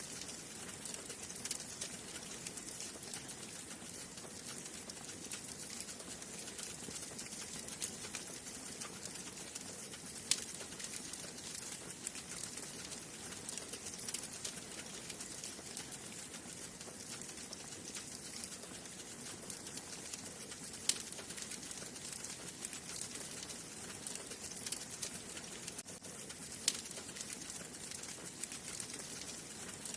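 Wood fire burning in a fireplace: a steady hiss full of fine crackling, with three sharper pops spread through.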